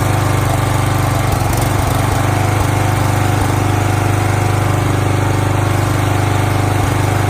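Small gasoline engine of a firewood log splitter running steadily, with a few short knocks from wood being split and landing.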